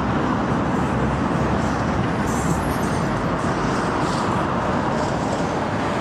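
Steady rumble of road traffic going by, with no single vehicle standing out.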